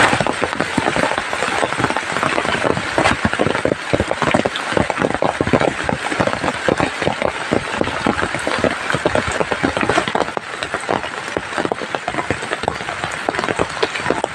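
Heavy rain, with a dense, irregular stream of drops striking a surface close by over a steady hiss of falling water.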